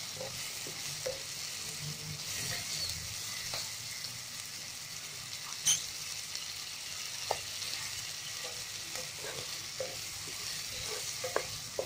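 Green peas with onion and spices frying in hot mustard oil in a pan: a steady sizzle, with the scrapes and light taps of a spatula stirring them, one sharper tap about six seconds in.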